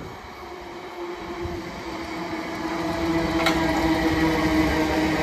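A South Western Railway electric multiple unit approaches and runs past, growing steadily louder. Its motors give a steady whine, and there is a sharp click about three and a half seconds in.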